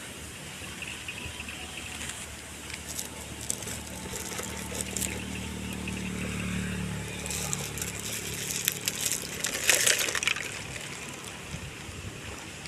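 An engine passing by, its low hum swelling to its loudest about six seconds in and then fading, with scattered clicks and a short loud burst of hissing noise about ten seconds in.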